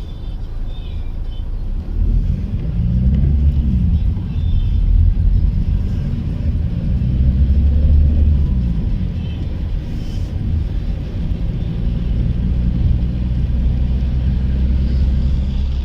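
Car engine and road rumble heard from inside a moving car, a deep steady drone whose engine pitch rises and falls twice as it speeds up and eases off.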